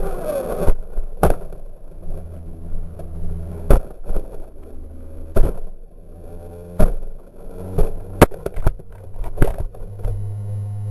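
Sharp clicks and knocks, about a dozen at uneven intervals, over a low steady hum.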